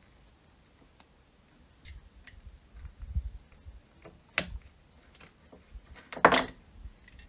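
Handling noises: a few soft low knocks, then a sharp click about four seconds in, and a quick run of clicks ending in a louder short rasp near the end.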